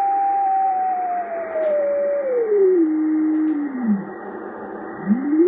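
Yaesu FT-950 transceiver's speaker putting out a steady whistle-like tone over receiver hiss, with no antenna connected. As the shift control is turned, the tone slides down in pitch in steps and fades out, then comes back rising near the end.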